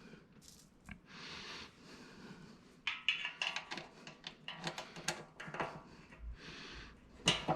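Irregular clicks, knocks and rattles of metal parts being handled and fitted together while a plotter stand is assembled, starting about three seconds in after a short rustle.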